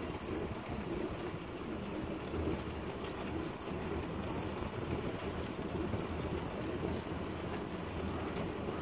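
Motorcycle engine of a Philippine tricycle (motorcycle with sidecar) running steadily on the move, with road and tyre noise.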